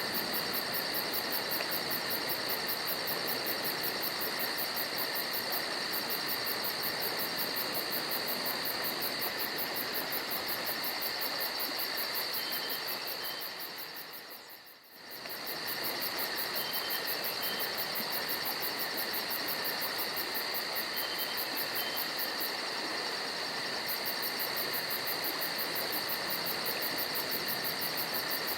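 Amazon rainforest insect chorus: steady high-pitched buzzing and very fast pulsing, with a few short paired chirps now and then. It fades briefly to quiet about halfway through, then returns.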